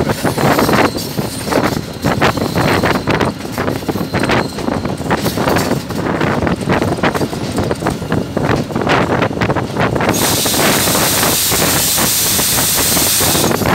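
Old GE diesel locomotive and train running along the track, heard from the locomotive's open front: a steady rumble with irregular clattering knocks from the wheels on the rails. About ten seconds in, a steady high hiss joins and stops shortly before the end.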